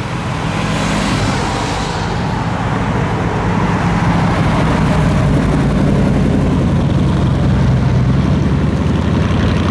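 Car engine running at low revs, growing louder over the first few seconds as the car comes closer, then holding steady.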